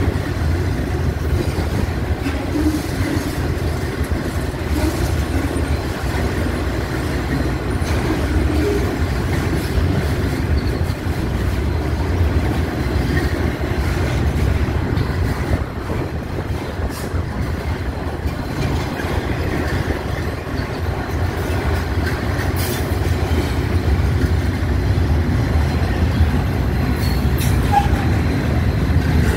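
Freight train cars, double-stack intermodal container cars, rolling past on the rails with a steady low rumble. A few sharp clicks of the wheels come in the second half.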